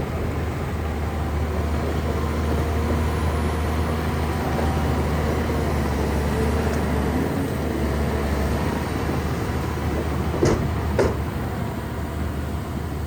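Shantui bulldozer's diesel engine running steadily under load, a deep low drone. About ten seconds in, two sharp metallic clanks come half a second apart.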